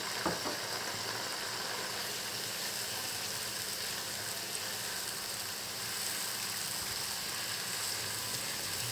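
Steady sizzling of ginger-garlic paste frying in hot ghee with browned onions and whole spices in a non-stick kadai, with a brief tap of the spatula just after the start.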